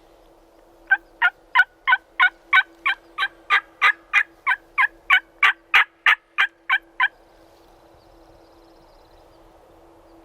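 Turkey yelping: a long, loud run of about twenty evenly spaced yelps, about three a second, lasting some six seconds and stopping abruptly.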